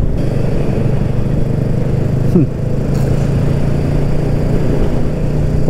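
BSA Goldstar 650's 650cc single-cylinder engine running at a steady pitch while the bike is ridden, heard from the rider's position with wind rushing over the microphone.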